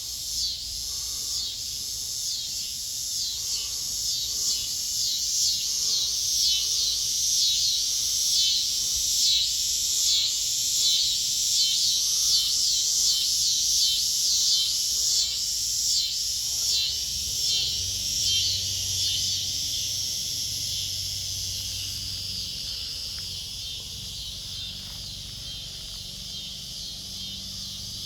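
A chorus of cicadas buzzing in a pulsing, high-pitched drone that swells louder toward the middle and fades over the last third.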